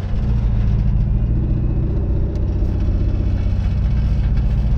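Mercedes-Benz E500's 5.0-litre V8 running steadily with the muffler and resonator removed, so the exhaust is loud and unsilenced.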